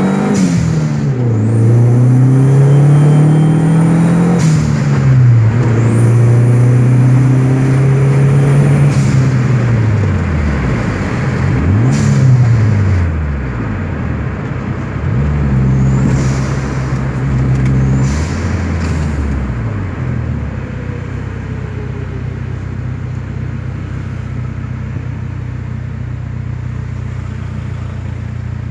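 Dodge SRT-4's turbocharged four-cylinder engine, heard from inside the cabin, revving up hard and dropping back at each gear change several times over the first twenty seconds. It then settles into a steady, quieter run at low revs.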